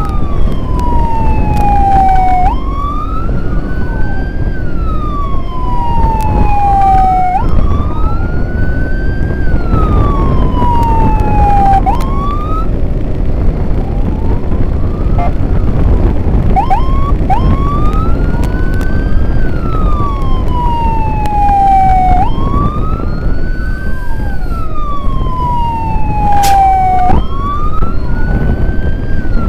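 Escort siren wailing, its pitch sweeping up and then gliding down again every two to three seconds, with a second siren sweeping out of step. A few short yelps break the pattern about halfway through. Steady low road and wind rumble runs underneath.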